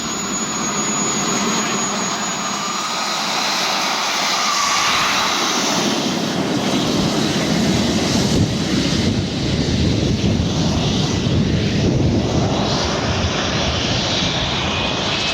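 Twin JetCat P120 model gas turbines of a large radio-controlled jet running at high power: a loud jet rush that grows fuller and deeper about six seconds in and is loudest near the middle.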